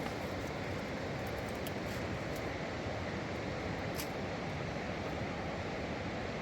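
River water rushing steadily, with a few faint clicks, the clearest about four seconds in.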